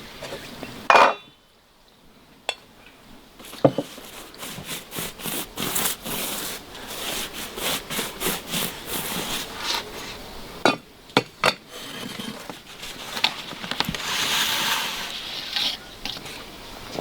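Food preparation by hand: a run of short knocks and clinks of utensils and dishes, with rubbing and scraping in between.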